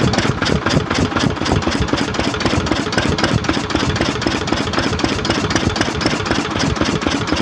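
Lister stationary diesel engine running steadily, with an even, rapid rhythm of firing strokes.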